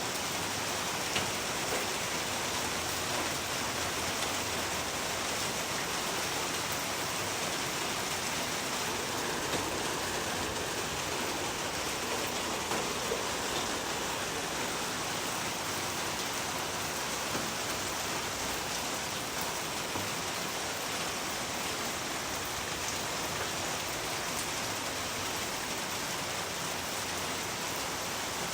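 Steady rain falling, an even hiss with a few louder single drop ticks here and there, played as sleep noise.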